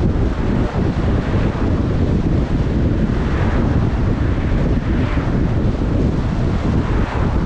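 Steady wind and road noise from a car on the move: a dense low rumble with wind buffeting the microphone.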